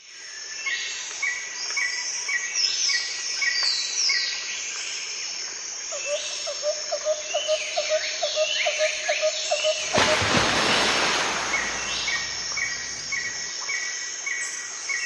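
Birds calling outdoors, with repeated short chirps and sweeping notes, and a run of lower, evenly repeated chirps in the middle. About ten seconds in, a loud, steady rushing noise sets in.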